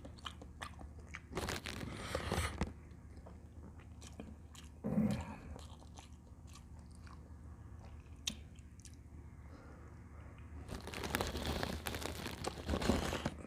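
Close-miked eating sounds of a person chewing and biting into camel bulalo, with small wet clicks throughout, a noisy stretch about two seconds in, and a longer one near the end.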